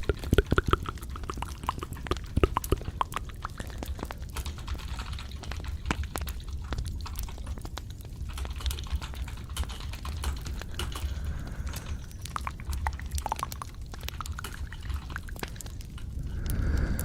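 Close-miked ASMR trigger sounds: a dense, irregular stream of small clicks and taps over a steady low rumble, swelling into a smoother rushing sound near the end.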